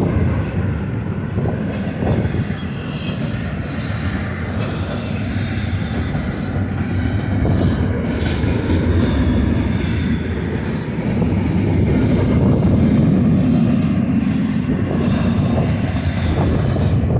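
Freight train rolling past on the main line: a steady rumble of railcar wheels on the rails, growing a little louder about eleven seconds in.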